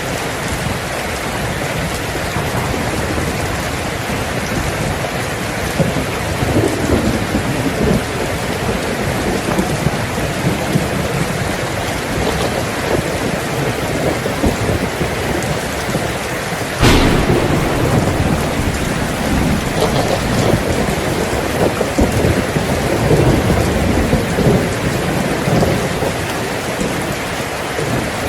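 Heavy rain drumming steadily on a tin roof, with thunder. A low rumble comes around six to eight seconds in, then a sharp thunderclap about seventeen seconds in that rolls on for several seconds.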